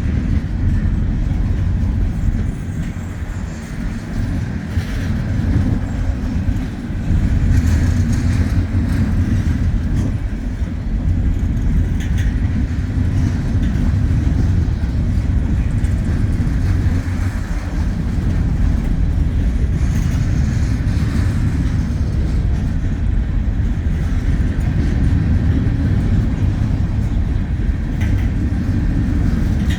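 Wheeling & Lake Erie freight train rolling past: a steady low rumble of the train on the rails, with a few sharp clacks scattered through it.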